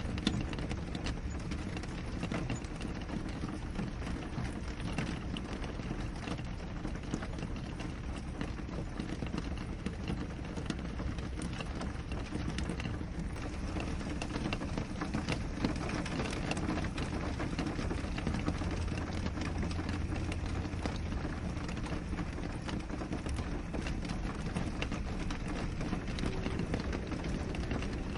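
Steady rain falling on a window, many separate drops ticking on the glass over an even hiss of rainfall.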